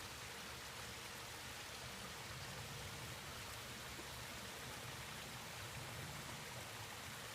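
Rain-swollen runoff water pouring down a slope as a small waterfall, a steady even rush, with rain falling.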